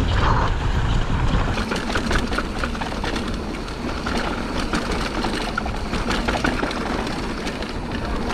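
Mountain bike riding fast down a dry, loose dirt trail. Wind rumbles on the microphone, and the tyres and bike give off a constant stream of small rattles and ticks.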